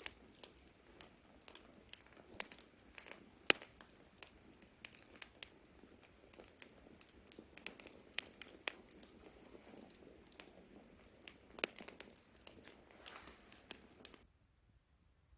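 Wood campfire crackling, with frequent irregular sharp pops and snaps over a soft hiss. The sound cuts out to silence about a second before the end.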